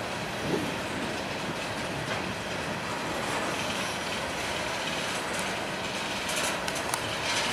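Freight train cars, covered hoppers among them, rolling past with a steady noise of steel wheels on rail, and a few short sharp clicks near the end.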